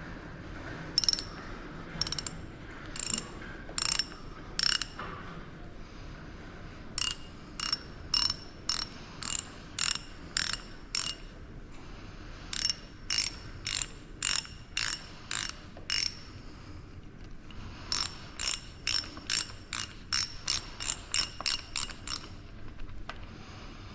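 Ratchet wrench clicking in runs of quick back-strokes with short pauses between, the last run speeding up, as a fitting at the hydraulic cylinder's holding valve is loosened to let out the trapped pressure.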